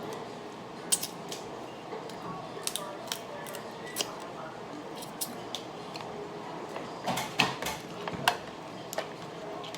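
Seafood shells being cracked open during a meal: scattered sharp clicks and cracks of shell and utensils, busiest about seven to eight seconds in.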